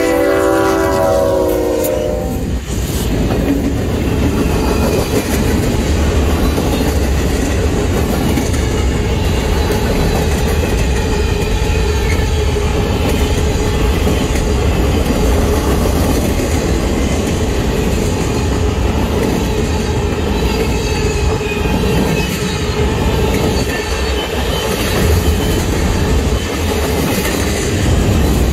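A freight train's locomotive horn sounds a chord that stops about two seconds in. The locomotives then pass and a long train of boxcars rolls by, its wheels rumbling and clacking on the rails.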